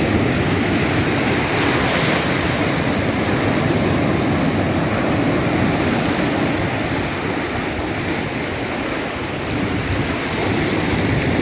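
Sea surf washing and breaking on the shore in a steady, loud rush, rough enough that swimming is unsafe, with wind buffeting the microphone.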